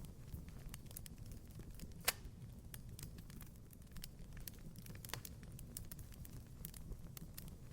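Wood fire crackling: scattered sharp pops over a low steady rumble of the flames, the loudest pop about two seconds in and another about five seconds in.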